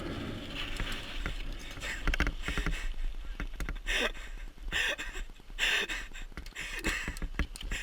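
Mountain bike rattling and knocking as it is ridden over rough trail, with several short louder bursts in the second half.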